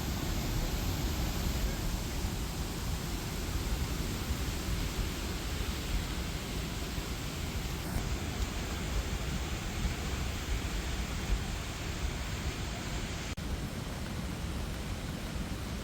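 Swollen Beas River in flood, its fast water rushing as a steady, dense noise heaviest in the low end.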